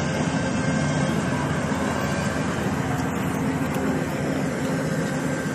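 Steady low rumble of a heavy vehicle, with no sudden impacts.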